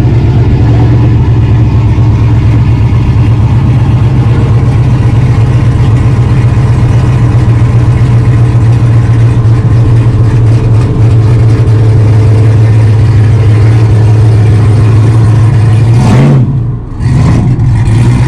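Truck engine running steadily with a loud low hum, its note dipping and changing briefly near the end.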